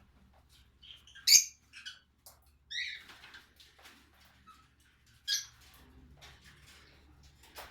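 Lovebirds giving short, sharp chirps while bathing, about three louder calls a second or two apart, with faint fluttering and small pattering sounds between them.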